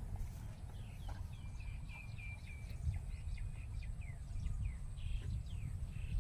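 Birds calling in open farmland: a series of short, falling high chirps and a brief held whistle about two seconds in, over a constant low rumble.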